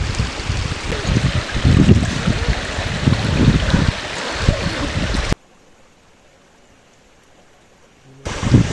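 Steady rushing of running water, with gusts of wind buffeting the microphone. About five seconds in it cuts off abruptly to a faint hush, and the rushing returns near the end.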